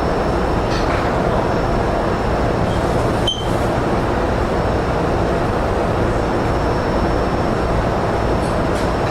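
Steady train noise inside an E231-series commuter car while it stands at a station, with a short click about three seconds in.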